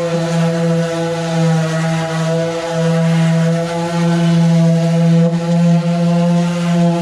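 Power sander running with 220-grit paper on an aluminum truck fuel tank: a steady pitched hum that dips briefly about two and a half seconds in.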